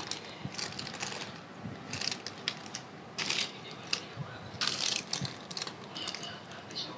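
Irregular crinkling and crunching from snack packets and snacks being handled, a run of crackles with several louder bursts.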